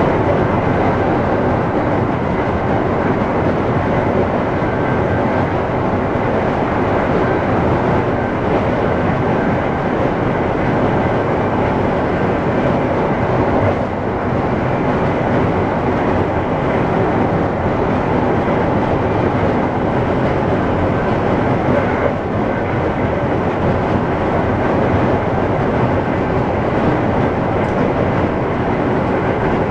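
Steady rolling rumble of an Amtrak passenger train running at speed on welded track, heard from inside its rear car.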